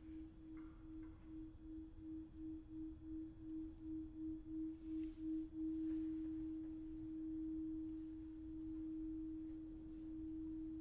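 A single pure sustained tone, pulsing about three times a second with the pulses growing louder, then held steady and slowly fading after about five and a half seconds.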